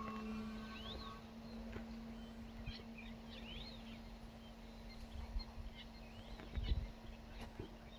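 Small birds calling in natural ambience: short chirps that rise and fall, repeated every second or so, over a steady low hum, with a couple of soft low thumps near the end.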